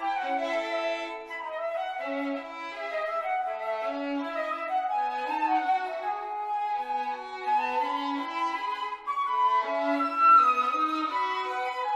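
Flute and violin playing a duet: two melodic lines weaving together, one lower and one higher, moving steadily from note to note.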